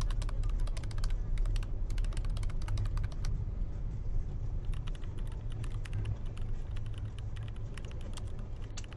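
Rapid, irregular clicking like typing on a keyboard, thick for about the first three seconds and then sparser, over the low steady rumble of a car on the road.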